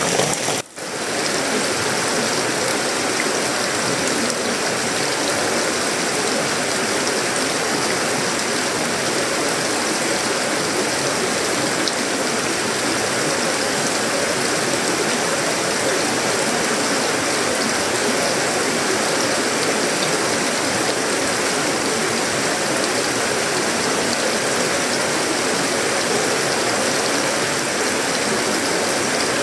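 Heavy tropical rain falling steadily on a sheet-metal roof, wood and leaves: a dense, even patter. It dips out briefly just under a second in, then carries on unchanged.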